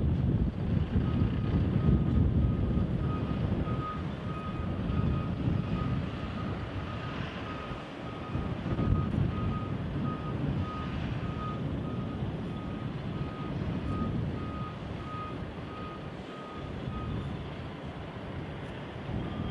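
A vehicle's reversing alarm beeping steadily, about two beeps a second, stopping near the end. Wind buffets the microphone underneath.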